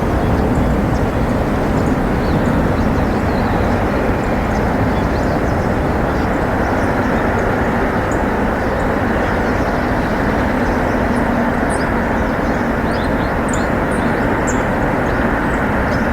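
Steady low outdoor rumble with brief, faint high chirps of small birds scattered through it.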